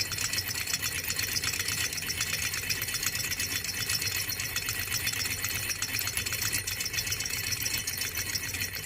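Small educational Stirling engine running steadily, its moving parts making a fast, even mechanical rattle over a low hum.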